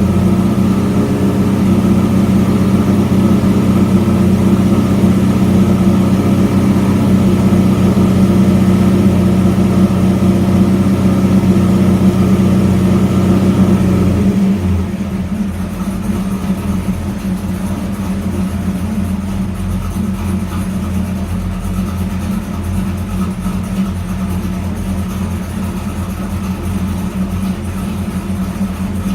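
Freshly installed LT1 5.7-litre V8 in a 1994 Camaro idling steadily on its first run. About halfway through it settles to a quieter, smoother idle.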